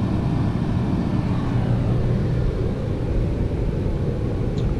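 Steady low mechanical rumble of a running machine, unchanging throughout.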